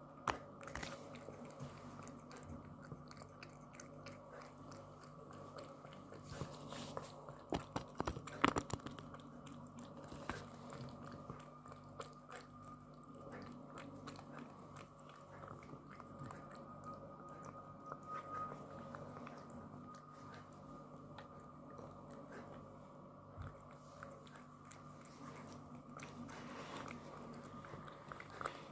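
A cat chewing and crunching its food in small, irregular bites, loudest about eight seconds in, over a faint steady hum.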